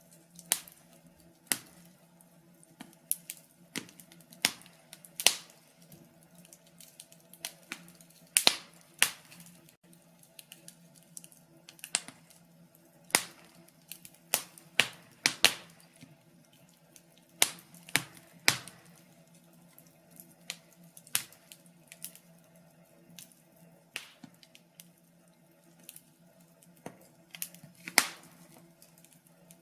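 Wood fire in a fireplace crackling, with irregular sharp pops, some louder than others, over a faint steady low hum.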